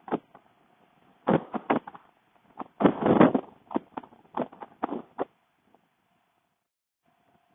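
A series of irregular short thumps and bursts of noise on the microphone, heaviest about three seconds in, then stopping at about five seconds.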